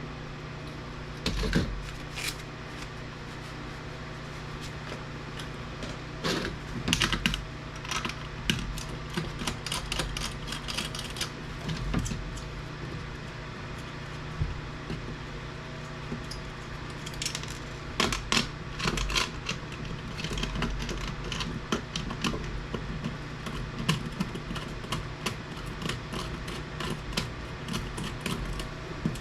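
Irregular clicks, taps and rattles of small plastic and metal parts and hand tools as an APC battery backup unit is taken apart, over a steady low hum.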